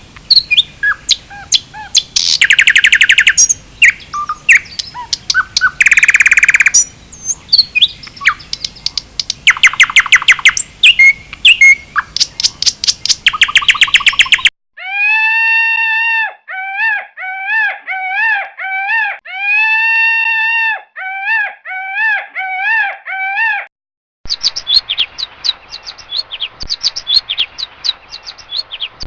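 Songbirds singing in spliced recordings. First a busy mix of rapid chirps and buzzy trills; about halfway in it cuts to a single clear call repeated in short arched notes, with a few longer ones. Near the end it cuts again to fast high chirping.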